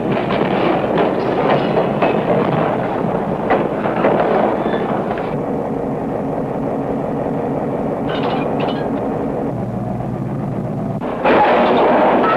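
Railroad freight cars rolling slowly past, wheels clicking over the rail joints, then a steadier rumble with a low hum. About eleven seconds in, a sudden loud crashing bang of the cars' steel knuckle couplers.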